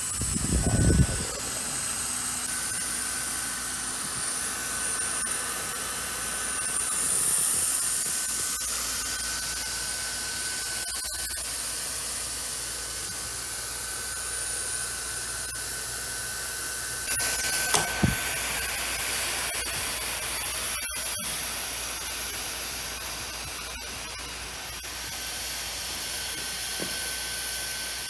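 Automatic hot-air roofing welder (BAK RoofOn Multi) running with its blower on maximum airflow as it welds TPO membrane onto TPO-coated metal: a steady hiss with a thin high motor whine. A couple of brief knocks come about a second in and again about two-thirds of the way through.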